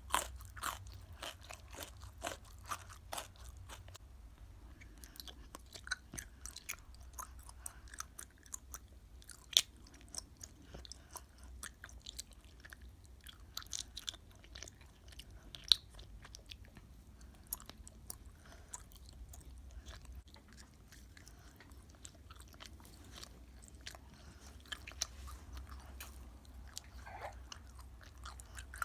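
A person chewing and biting crunchy food close to the microphone: irregular crisp crunches and wet mouth clicks, some sharply louder than the rest.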